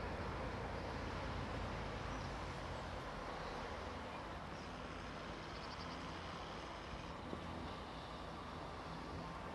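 Steam-hauled passenger train moving away along the track, a steady rumble growing slowly fainter.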